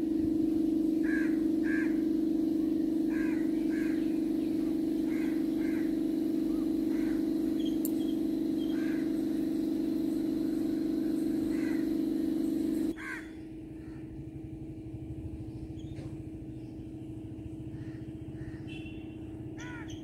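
Birds calling repeatedly outdoors, short calls often in pairs, over a loud steady low hum. The hum drops sharply in level about two-thirds of the way through.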